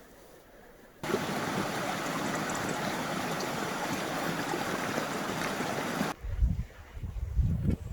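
Steady rushing of running water that starts abruptly about a second in and cuts off about six seconds in. After that, wind gusts buffet the microphone.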